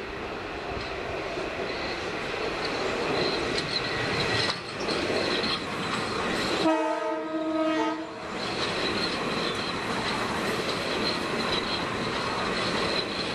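Metro-North M8 electric train passing through the station at speed: wheel and rail rumble builds as the cars go by, with a thin steady high whine. A little past halfway it sounds its horn once for about a second and a half.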